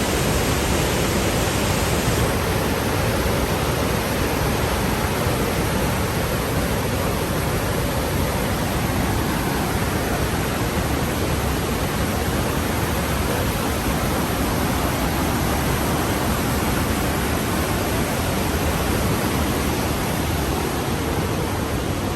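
Rhine Falls waterfall: a loud, steady rush of falling water, loud enough to drown out speech.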